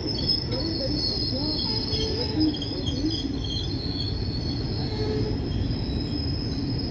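Indian Railways ICF sleeper coaches rolling past: a steady rumble of wheels on the rails, with a thin, high-pitched wheel squeal held over it and some lower wavering squeals.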